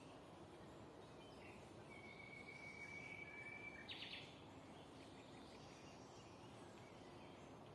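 Faint birdsong over a steady background hiss: one long level whistle starting about two seconds in, cut off by a short quick burst of notes, with a few weaker chirps around it.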